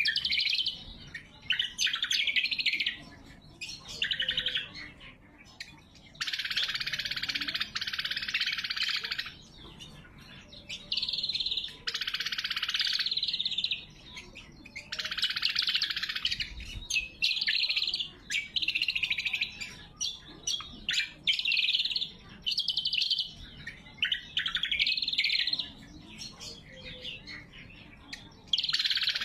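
Greater green leafbird (cucak kombo) singing: bursts of rapid high notes, each one to three seconds long, with short gaps between. The longest phrase starts about six seconds in.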